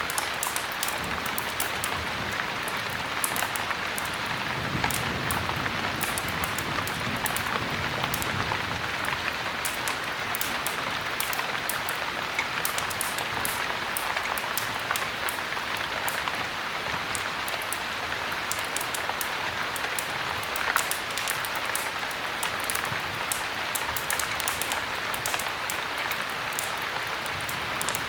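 Heavy rain falling steadily: a dense, even hiss with many small sharp ticks scattered through it.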